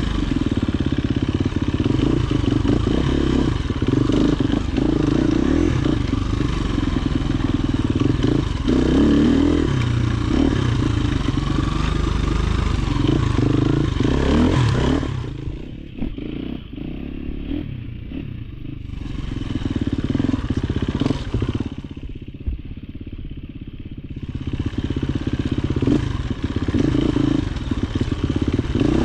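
Off-road dirt bike engine running under way on a trail, with rattling from the bike. The engine eases off and the sound drops twice, about halfway through and again a few seconds later, before picking back up.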